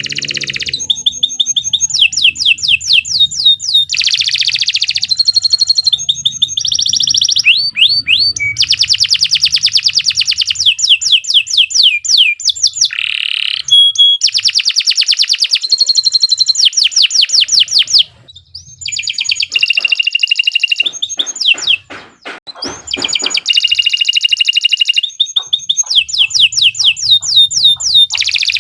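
Domestic canary singing a long song of fast, rapidly repeated trills and rolls, high-pitched, with two short breaks past the middle.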